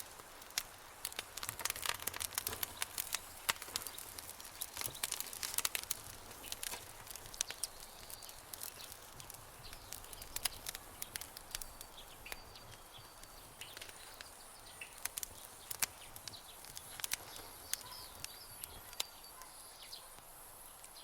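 Campfire crackling, with sharp pops and snaps that come thick in the first several seconds and thin out later. Faint high, thin calls run through the second half.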